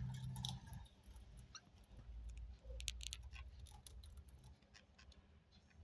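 Pet budgerigars, quiet for the moment, with a few faint brief chirps and scattered small clicks and taps, a louder cluster of clicks about three seconds in.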